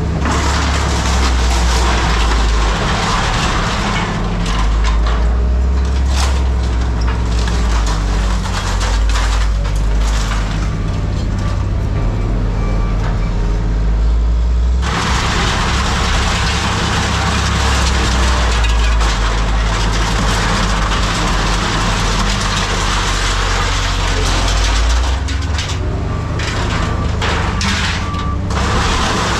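Diesel engine of heavy scrapyard machinery running steadily, with grinding noise and repeated knocks and clatter of scrap metal being handled, the knocks thickest near the end.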